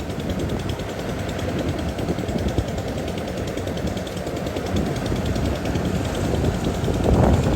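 Rice combine harvester running steadily, a dense mechanical rumble of engine and harvesting gear that grows louder near the end.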